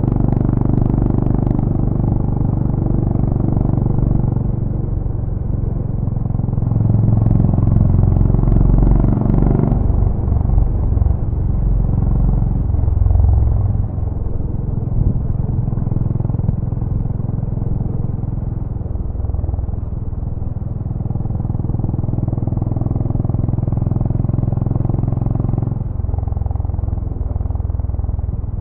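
Honda GB350's air-cooled single-cylinder engine running through its stock exhaust. The engine note drops about ten seconds in and shifts again near the end.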